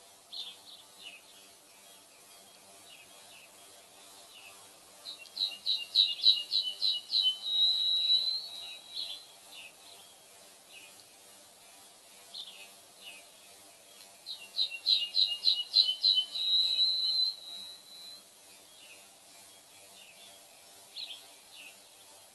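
A songbird singing twice, each phrase a quick run of about eight notes ending in a held note, with scattered short calls between the phrases.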